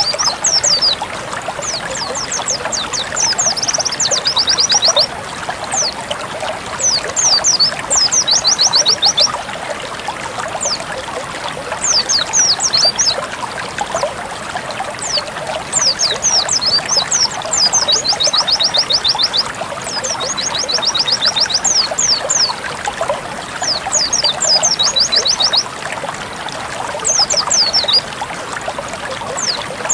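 Water trickling and splashing steadily, with a white-eye (pleci) singing repeated phrases of high, rapid twittering chirps and trills over it.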